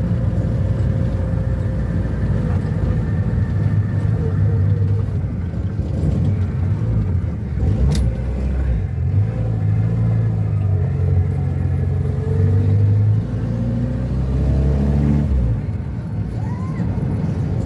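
1971 Ford Corcel's four-cylinder engine running under way as the car is driven, its pitch climbing and falling as it accelerates and shifts gears, with a brief drop and pick-up near the end. A single sharp click about eight seconds in.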